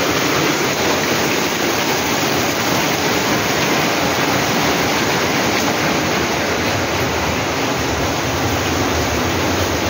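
Heavy rain pouring down, a loud, steady rush of water.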